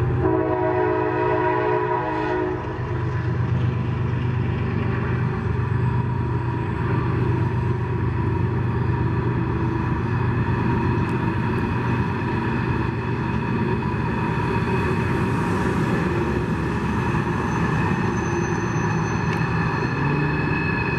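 Diesel locomotive horn sounding a chord for about the first two and a half seconds, then the locomotives of a coal train rumbling steadily as the train runs by. A high, steady squeal joins in about halfway through and grows toward the end.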